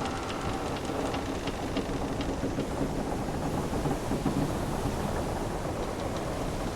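Wooden sailing ship at sea: a steady wash of ocean waves, with the hull's timbers giving a low drawn-out creak and faint scattered ticks.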